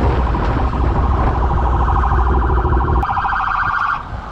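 Police siren sounding in a fast, evenly pulsing pattern, over a low rumble that cuts off about three seconds in.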